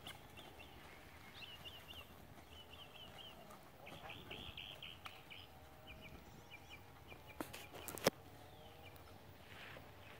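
Small birds chirping in quick runs of short, high notes, with a denser burst of chirping about four seconds in. A few sharp clicks about eight seconds in are the loudest sound.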